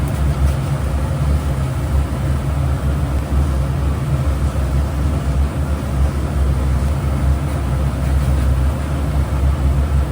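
Steady low mechanical rumble, like a machine running continuously.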